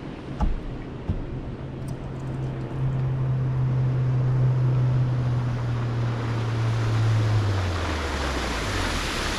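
A boat motor hums steadily over wind and lapping water, growing louder in the first few seconds, then dropping in pitch and easing off near the end as the boat slows. A couple of light knocks come early on.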